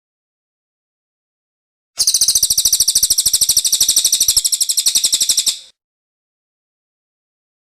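Cililin bird song: one very fast, even trill lasting about three and a half seconds, beginning about two seconds in.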